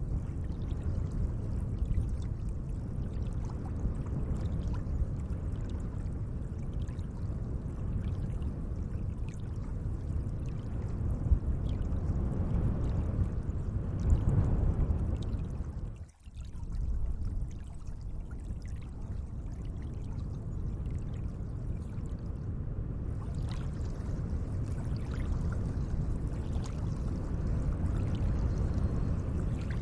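Gently moving lake water: a steady, even wash, with a short sharp drop in level about halfway through.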